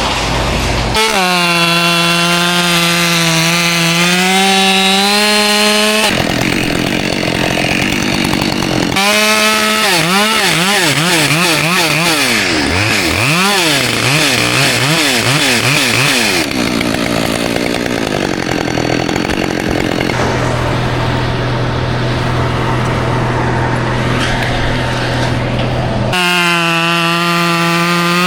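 Two-stroke chainsaw running at high revs while cutting pine, switching abruptly between stretches. About halfway through, its pitch swings rapidly up and down as the throttle and load change. Between the high-rev stretches a lower, steadier engine drone takes over.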